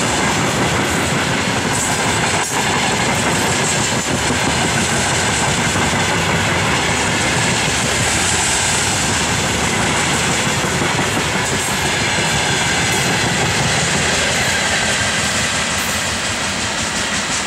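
Freight train of open-top gondola wagons rolling past close by at speed: a steady, loud rush and clatter of steel wheels on the rails. Near the end the last wagon goes by and the sound begins to fade.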